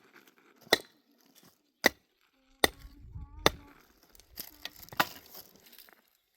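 Sharp strikes on wood, about one a second, four in a row, like chopping or splitting with a hatchet. After them comes a stretch of lighter knocks and rustling.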